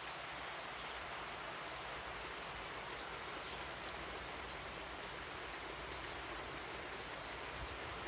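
Steady rain falling, an even hiss with faint scattered drip ticks.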